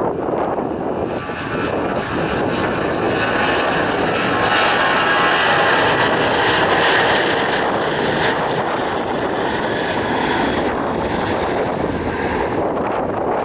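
Airliner passing low overhead: its engine roar swells, peaks about halfway through with a bright hiss on top, then eases off.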